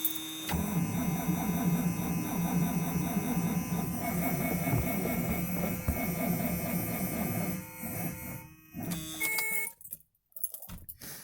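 1976 Cadillac V8 cranking on its starter in bitter cold, turning over steadily and rhythmically for about seven seconds without firing, then stopping. A short burst of sound follows about nine seconds in. The engine won't catch: too cold to start without gas on the carb, on a battery the owner calls frozen.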